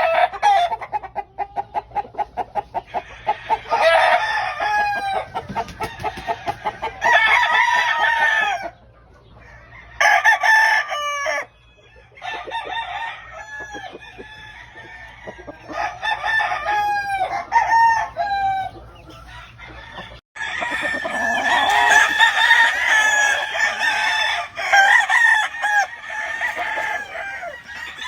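Gamefowl roosters crowing again and again, with clucking between the crows. The sound breaks off suddenly a few times. In the last third several birds crow and cluck over one another.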